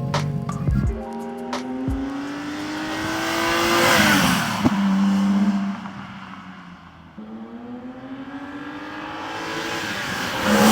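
BMW E9 coupe's swapped-in S38B36 inline-six, with individual throttle bodies, accelerating hard past twice. Each time the engine note climbs steadily, gets loudest as the car goes by, then drops in pitch. Music plays briefly at the start.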